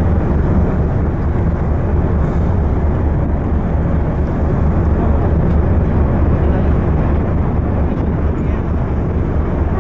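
Steady low rumble of a sightseeing icebreaker under way through drift ice, its engines and hull noise running unbroken.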